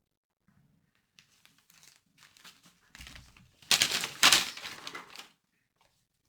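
Gift wrapping being handled: soft rustling and crinkling, then two loud tears of the wrapping a little before and after the four-second mark.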